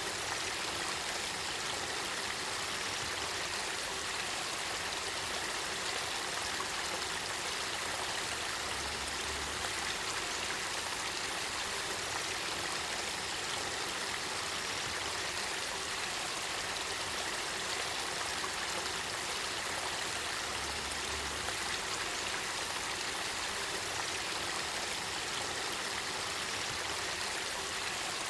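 Spring-fed river water welling up and flowing: a steady, unbroken rush of running water.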